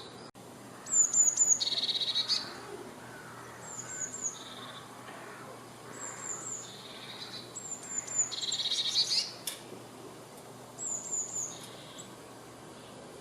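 A tit singing: a repeated phrase of three or four thin, high, down-slurred notes followed by a lower buzzy trill, given about five times.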